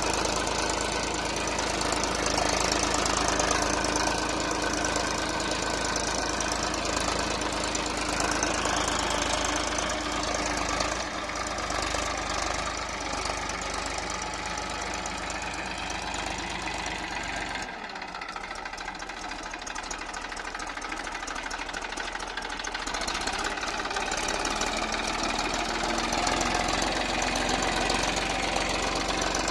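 Massey Ferguson 241 DI tractor's three-cylinder diesel engine running steadily under load as it pulls a five-tine cultivator through deep mud, its note wavering up and down. Past the middle the sound drops and thins for a few seconds, then comes back.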